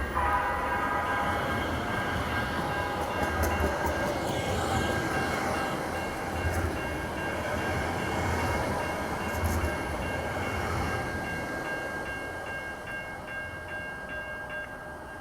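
Sound Transit Link light rail train running through the station, with a steady high whine over running noise and low thumps every second or two. The train fades over the last few seconds.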